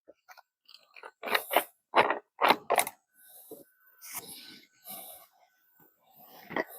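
Hard plastic clicks and knocks, about five in quick succession, then fainter scraping and rattling as a cordless power tool that has just stopped working is handled and checked.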